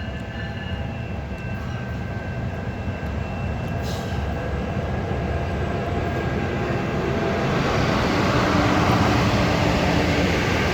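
Exo Vaudreuil–Hudson diesel commuter train approaching, its rumble growing steadily louder, with a single sharp click about four seconds in.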